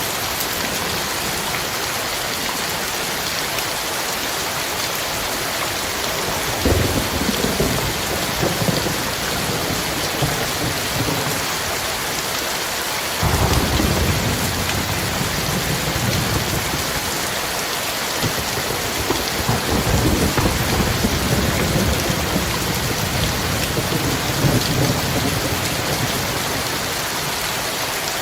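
Heavy rain falling in a steady hiss, with thunder rumbling in about seven seconds in, breaking sharply about thirteen seconds in, and rolling again from about twenty seconds.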